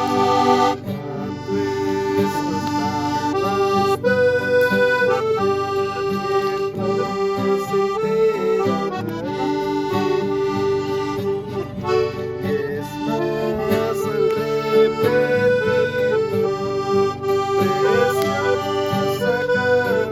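Instrumental music with an accordion sound: a melody of held notes over sustained chords, with no singing.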